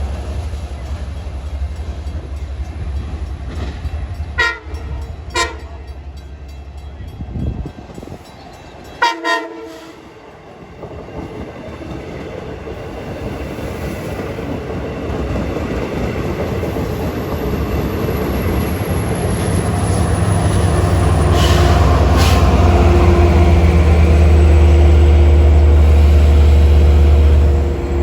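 Long Island Rail Road diesel passenger train: a few short horn blasts, then the locomotive's engine growing much louder as it comes close and running loud and steady.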